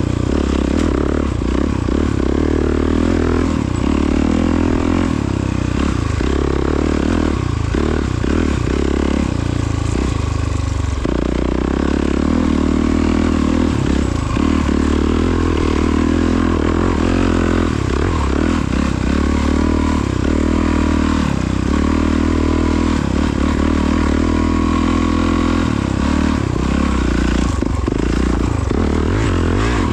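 Honda CRF450RWE dirt bike's single-cylinder four-stroke engine running under load while being ridden, its pitch shifting a few times as the revs change.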